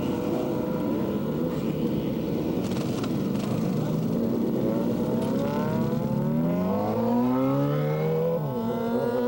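Motorcycle engine accelerating hard. Its pitch climbs steadily from about halfway through, drops briefly at a gear change and climbs again near the end.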